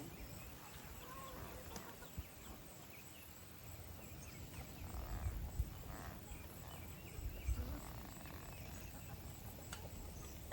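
Faint farmyard sound: a low rumble of outdoor noise that swells a couple of times, with scattered soft chicken calls.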